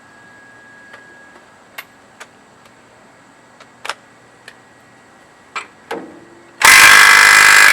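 A few light clicks and taps, then about a second of loud impact wrench hammering near the end, driving a puller bolt into the primary clutch to press the clutch off its shaft.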